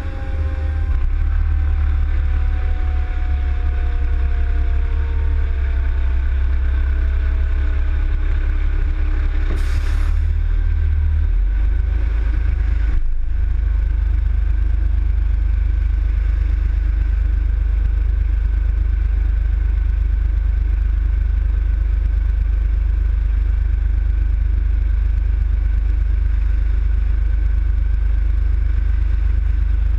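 A heavy vehicle's engine and road rumble runs steadily and low. Over the first few seconds a whine falls slowly in pitch, as when the vehicle slows. There is a short hiss about ten seconds in.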